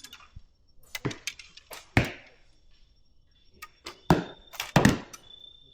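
Archery shots: bows loosing arrows that strike home with about five sharp thwacks at irregular intervals, two of them close together about a second in.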